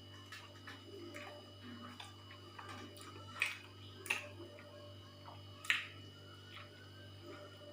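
A person eating: scattered soft mouth clicks and smacks while chewing, with three sharper smacks around the middle, over a steady electrical hum.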